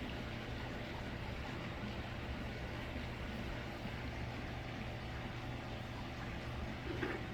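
Steady low background hum with an even hiss over it, unchanging and without distinct events.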